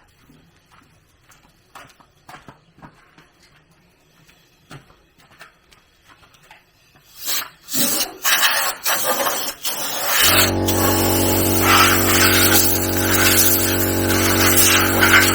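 Faint clicks and knocks of handling, then a few loud rasping bursts, then a machine's motor starts about ten seconds in and runs steadily with a low hum.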